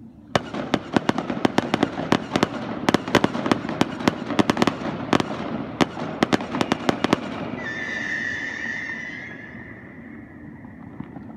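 Aerial fireworks going off in a rapid barrage of sharp bangs and crackles for about seven seconds. This is followed by a steady high whistle that fades away over the last few seconds.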